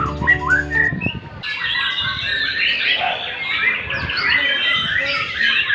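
White-rumped shama singing a dense, unbroken stream of quick, varied warbles and whistles. Background music stops about a second in.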